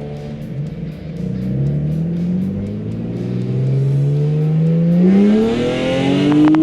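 Lexus IS300's 2JZ-GE straight-six accelerating hard through its new stainless header and Y-pipe. Its pitch dips briefly about a second in, then climbs steadily for several seconds until an abrupt break near the end, like an upshift.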